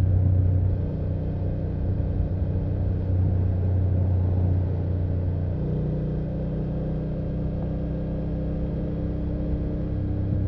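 BMW F800GS motorcycle's parallel-twin engine and exhaust running steadily under way. A little past halfway the engine note changes pitch.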